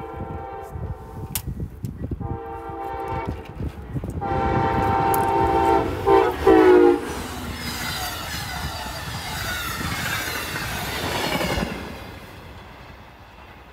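Passenger train locomotive horn sounding at a grade crossing: a long blast, a second long blast, then a third that drops in pitch as the locomotive passes, which is the loudest moment. The train's wheels then rumble and clack over the rails until the sound cuts off sharply near the end.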